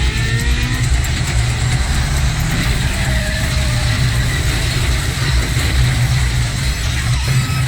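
Car engines running hard in a film chase sound mix: a loud, steady, pulsing low rumble. It cuts out abruptly at the very end.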